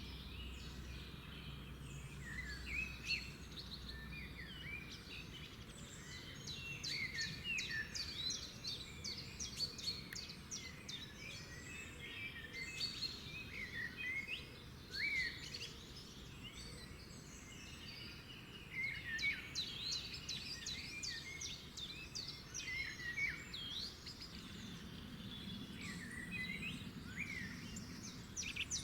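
Chorus of several small songbirds chirping and singing at once, many quick overlapping high chirps and short whistled glides with no pause, over a faint low steady background rumble.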